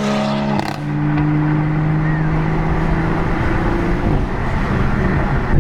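Car engine under way: its note breaks and drops to a lower pitch less than a second in, as at a gear change, then holds steady for several seconds.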